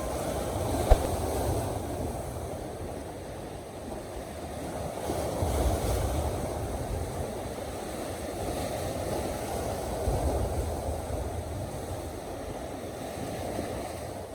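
Sea waves washing against a rocky shore, swelling louder about five seconds in and again about ten seconds in, with a low wind rumble on the microphone.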